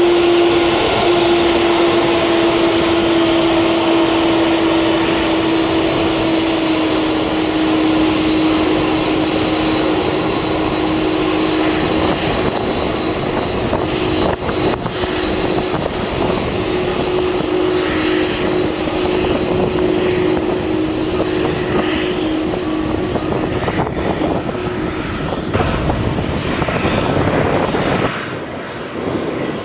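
Boeing 767 freighter's jet engines running at taxi power: a steady whine over a broad rush. Near the end the whine fades and the sound drops off.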